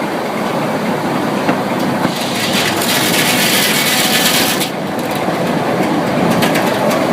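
Sawmill running, with a saw cutting through wood: a continuous mechanical din. The cut grows louder and hissier from about two and a half seconds in, then drops away suddenly near the five-second mark.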